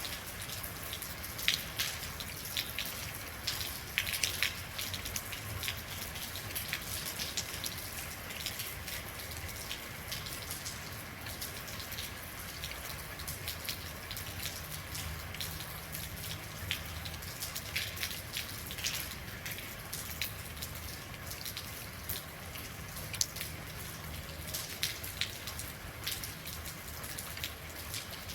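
Steady rain, with a constant hiss and irregular sharp drops hitting a surface close by.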